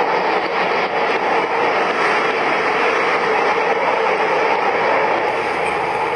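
Strong wind blowing as a loud, steady rushing noise.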